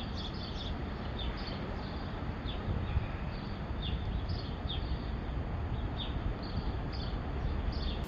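A small bird chirping over and over, short high downward-sliding chirps roughly one or two a second, over a steady low outdoor rumble.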